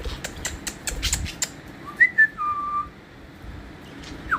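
A person whistling a few short, clear notes that step down in pitch, about two seconds in, after several sharp clicks in the first second and a half.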